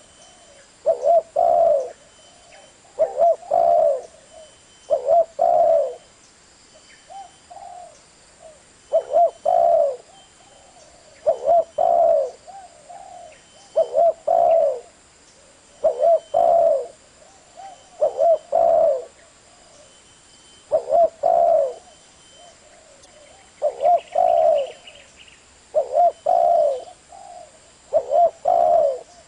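Spotted dove cooing: a low, repeated coo phrase of a few notes, roughly one phrase every two seconds.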